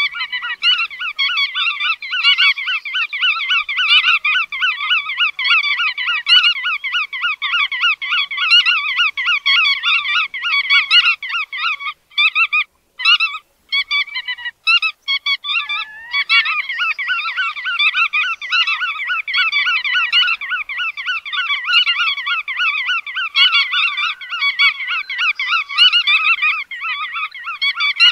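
A flock of bar-tailed godwits calling, a dense chorus of rapid, overlapping repeated calls that breaks up into scattered calls for a few seconds near the middle, then resumes.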